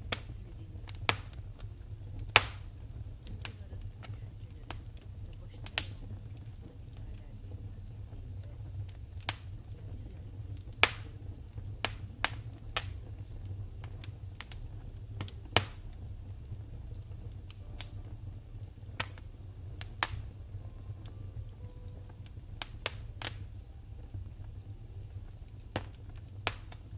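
Wood fire burning in a fireplace: sharp crackles and pops at irregular intervals over a steady low rumble of the flames.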